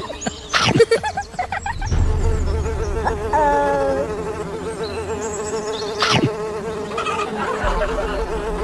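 Houseflies buzzing: a steady, slightly wavering drone, with a higher buzz for under a second about three seconds in and a sharp click about six seconds in.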